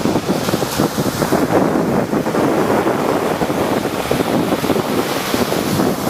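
Rough sea surf: waves breaking and washing continuously, with a hiss that swells about half a second in and again near the end. Wind buffets the microphone throughout.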